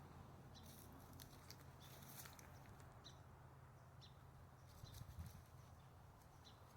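Near silence: faint footsteps on a woodland trail, scattered light crunches, and a soft bump about five seconds in.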